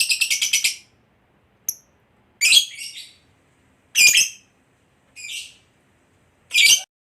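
Lovebird calling: a long rapid high chatter (the prized 'ngekek') cuts off under a second in, followed by five short, shrill chirps at irregular gaps of about a second.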